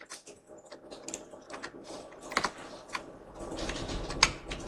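Irregular clicks and taps of a computer keyboard and mouse, two of them louder, about halfway through and near the end.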